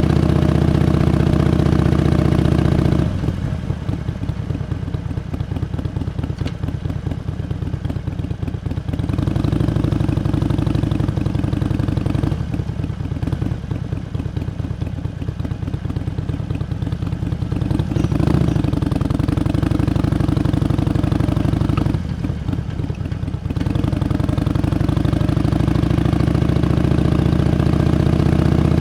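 Harley-Davidson Iron 883's air-cooled 883 cc V-twin engine running under throttle while riding. It falls back to a softer off-throttle sound three times: the longest stretch starts about three seconds in, with shorter ones near the middle and later on.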